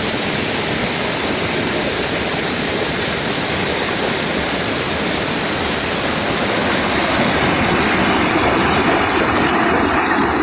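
Heavy rain and the rushing water of an overflowing river, a steady, loud roar of noise. Near the end the high hiss of the rain thins and the lower roar of the water comes forward.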